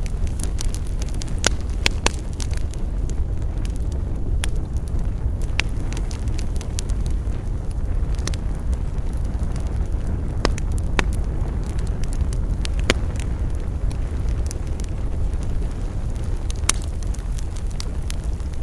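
Wood fire burning with scattered sharp crackles and pops over a steady low rumble.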